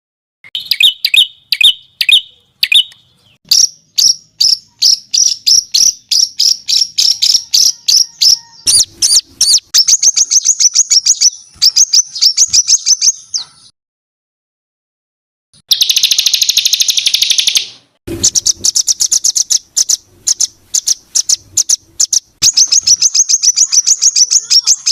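Songbird song made of fast, dense runs of sharp, high repeated notes, the rough, tightly packed 'tembakan' bursts used to tutor competition songbirds. The song breaks off for a second or two past the middle and resumes with a harsh, buzzy rasp before the rapid notes return.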